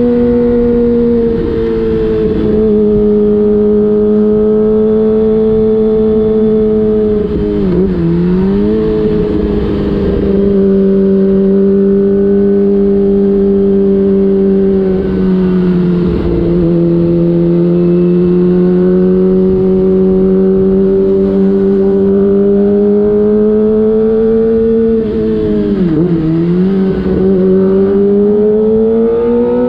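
Kawasaki ZX-25R's 249 cc inline-four through an aftermarket DX Generation Prorace exhaust with the dB killer removed, running at steady part-throttle cruise with a high, smooth engine note. The pitch dips briefly three times and recovers, then climbs near the end as the bike accelerates.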